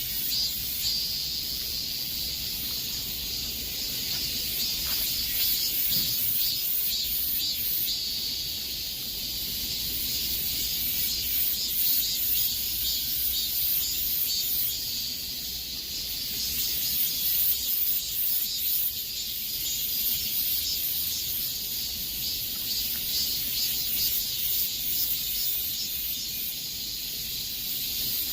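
Cicadas singing in chorus: a dense, high buzzing drone that pulses rapidly and swells and fades every few seconds.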